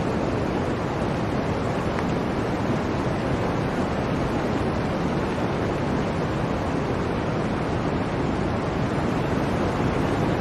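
Steady blizzard wind rushing without let-up, a dense, even roar with no gusts standing out.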